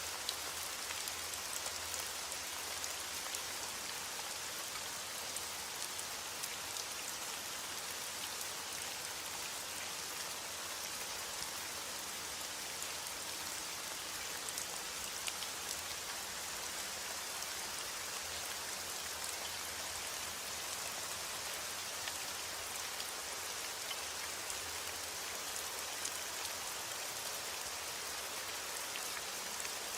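Steady heavy rain: a dense, even hiss with many small drops pattering on a surface.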